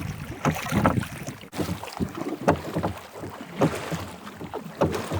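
Small rowing boat under way: oars knocking and splashing about once a second, with wind on the microphone.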